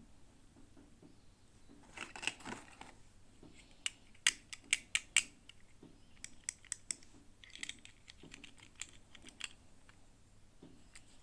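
Hands unboxing small toys: plastic packaging crinkles and rustles, with a run of sharp plastic clicks and taps in the middle.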